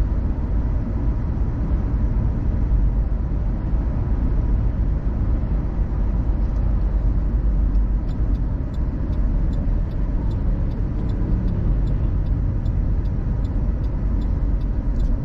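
Car driving, heard from inside the cabin: a steady low rumble of road and engine noise. About eight seconds in, a light, even ticking starts, around three ticks a second.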